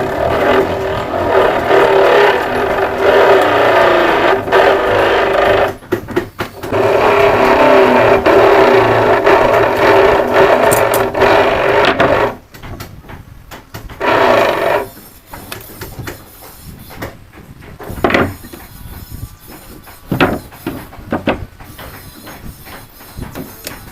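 Power tool working wooden boards, running in two long passes of several seconds each and then a short one, followed by a few sharp knocks.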